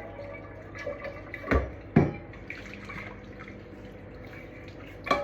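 Kitchen sounds of water dripping and running at a sink, with two dull knocks about a second and a half and two seconds in and a sharp clink near the end, over a low steady hum.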